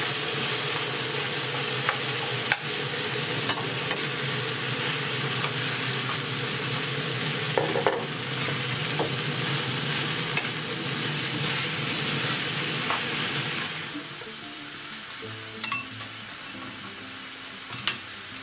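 Minced pork sizzling in a frying pan with onion and tomato as it is stirred with a spoon, the spoon clicking against the pan now and then. The sizzle drops noticeably quieter about fourteen seconds in.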